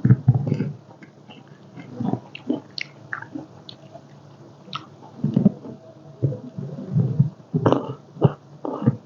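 A person chewing and slurping spicy seafood papaya salad close to the microphone, in irregular bursts of wet mouth sounds and clicks.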